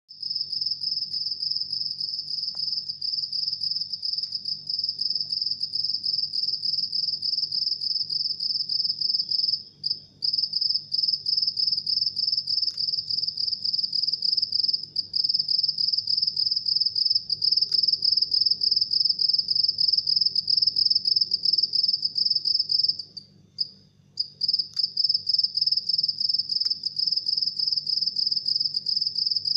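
House cricket chirping: a high-pitched, steady series of rapid chirps, breaking off briefly twice, about a third of the way in and again about three-quarters of the way in.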